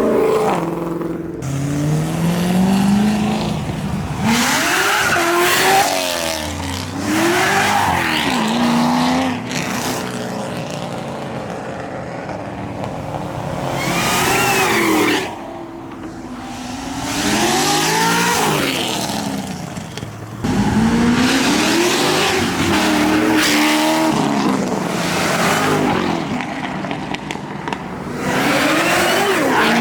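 Several performance cars accelerating hard one after another, engines revving up and dropping at gear changes as each passes, with lulls between passes.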